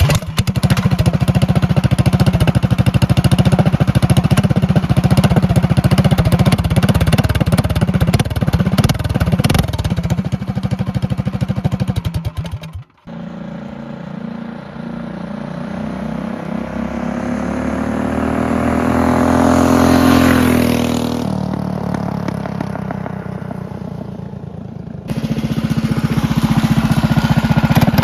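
Predator 212 single-cylinder engine on a minibike, breathing through an aftermarket exhaust with its muffler kept on, running close up with rapid firing pulses. About 13 seconds in the minibike rides past: the engine note climbs as it approaches, peaks and drops in pitch as it passes about 20 seconds in. Close-up running sound returns near the end.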